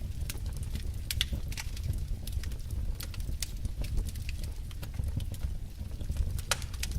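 Wood fire burning in a fireplace: a steady low rumble of flames with frequent, irregular sharp crackles and pops from the logs.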